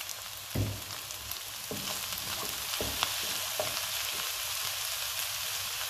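Diced aubergine pulp frying in oil in a non-stick pan: a steady sizzle that grows stronger after about two seconds, with a few short knocks of a wooden spatula stirring it in the first four seconds.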